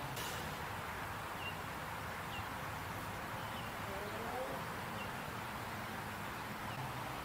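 Steady outdoor background noise with a small bird giving a short, faint chirp about five times, a second or so apart.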